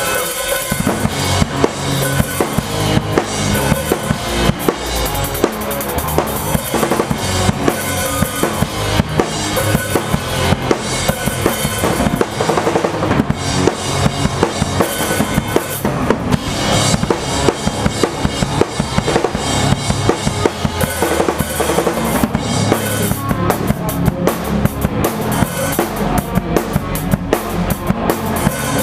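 A drum kit played live in a pop punk song, close up and loud: kick drum, snare and cymbals keeping a steady beat with the rest of the band behind it. The pattern shifts about two-thirds of the way through.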